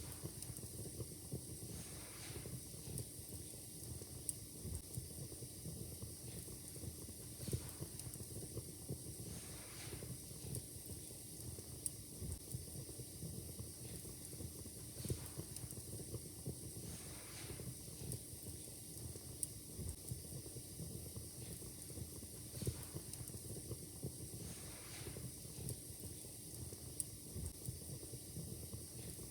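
Wood fire crackling in a fireplace: frequent small, irregular pops and snaps over a steady soft hiss.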